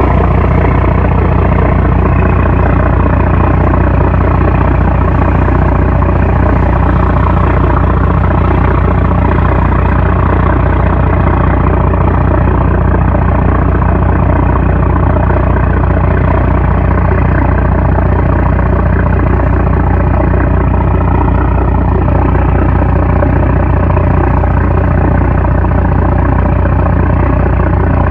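Fishing trawler's 750-horsepower marine diesel engine running steadily and loud, a constant low hum with a faint regular pulse underneath.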